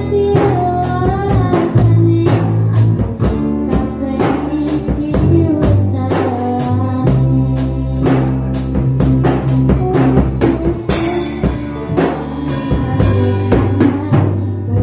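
Band music: a drum kit keeping a steady beat over bass and a melodic line.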